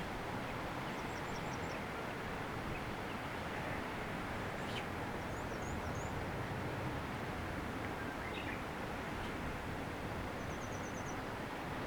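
Steady wind noise on the microphone, with faint distant birds chirping a few times: short high series about a second in and midway, and a quick trill near the end.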